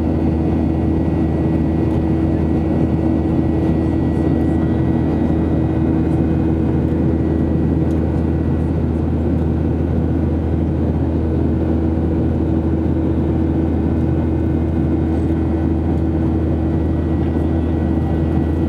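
Steady cabin drone of a Boeing 737-800 airborne after takeoff: engine and airflow noise with a heavy low hum, a steady mid tone and a faint high whine that do not change.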